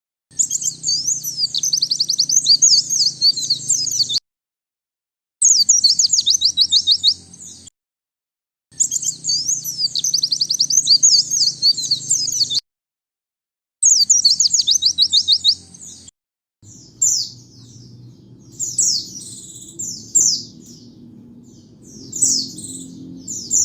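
White-eye (pleci) singing, with quick runs of high, thin twittering notes. There are four bursts of a few seconds each, separated by abrupt silent gaps, and then scattered separate chirps over the last third.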